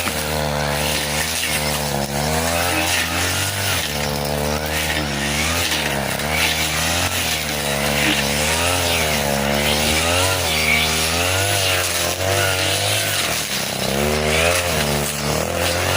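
40cc two-stroke brush cutter running at high revs, its engine note dipping and recovering every second or so as the 40 cm blade bites into thick grass.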